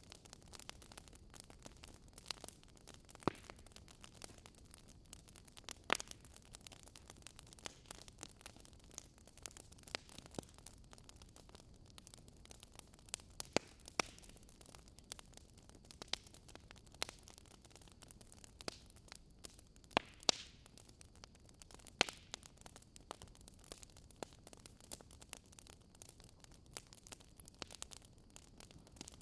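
Campfire crackling: irregular sharp pops and snaps of burning wood over a faint steady hiss, with a few louder pops now and then.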